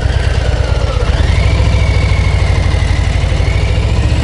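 Harley-Davidson Low Rider ST's Milwaukee-Eight 117 V-twin running under way with its even, loping beat; the engine note gets stronger and rises a little about a second in.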